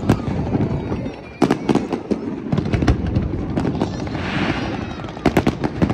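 Aerial fireworks going off over a continuous low rumble. There are sharp bangs just after the start, a few more about a second and a half in, and a quick cluster near the end, with a brief hiss about four seconds in.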